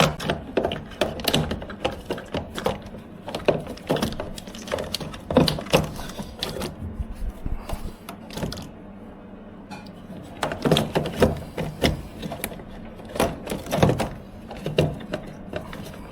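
Irregular clicks and knocks of Beko tumble dryer parts being handled and fitted back into the machine, with a quieter stretch about halfway through.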